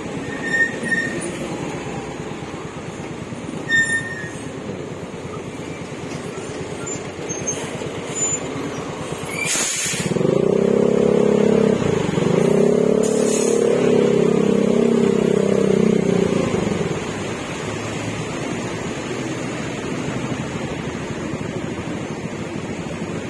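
Yamaha Mio Gravis scooter's 125 cc single-cylinder engine through an Akrapovic exhaust with silencer, heard while riding with steady road and wind noise. From about ten seconds in the engine note grows much louder and holds steady for about seven seconds before easing back.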